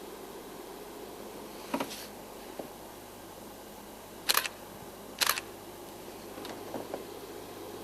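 Camera shutter firing three times, each a quick double click, with a few fainter clicks after, over a steady low background hum.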